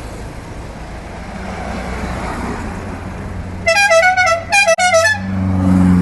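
A multi-note musical car horn plays two quick bursts of short notes that jump in pitch, about three and a half seconds in, over a steady engine rumble. Near the end a low engine note swells.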